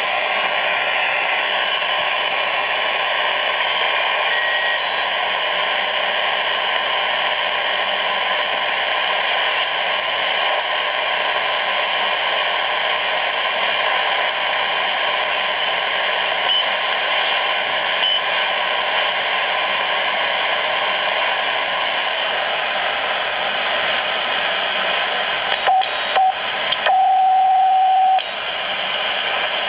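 Grundig Yachtboy 80 shortwave receiver's loudspeaker giving out an even hiss of static, with no station audible. Near the end come two short tones, then a steady, louder tone for about a second and a half.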